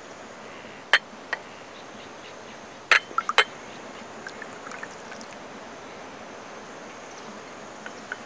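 Tea poured from a small teapot into a tea glass on a saucer. There are sharp clinks of glass and china, once about a second in and a quick cluster around three seconds in.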